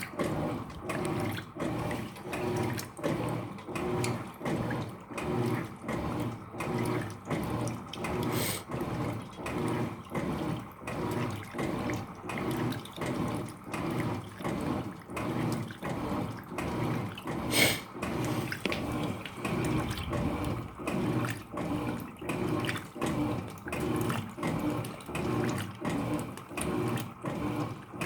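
Electrolux LF75 top-loading washing machine agitating its load, water sloshing in even rhythmic strokes as the agitator turns back and forth during the wash. A single sharp click sounds about two-thirds of the way through.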